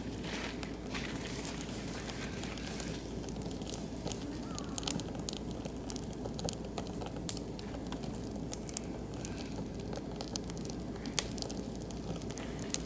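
Oak and beech wood fire burning in a barbecue grill, crackling with scattered sharp pops over a steady low noise.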